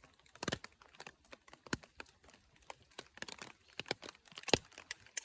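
Irregular light taps and clicks of rain drops hitting a tarp shelter, a few louder drips among them.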